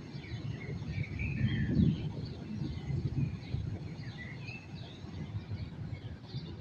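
Birds chirping and twittering over a continuous low background rumble that swells about two seconds in.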